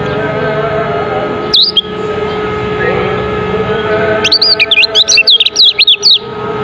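Lemon-bellied white-eye (kecial kuning) singing: one short high call, then about two seconds of fast, high, swooping twittering chirps. A steady hum runs underneath.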